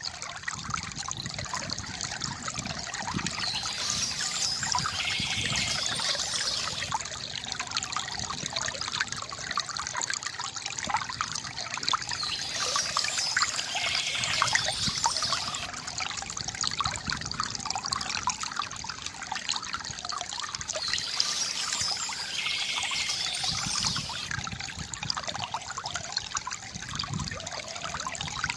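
Water trickling and splashing steadily from a bamboo fountain, with a brighter splashing swell about every eight to nine seconds.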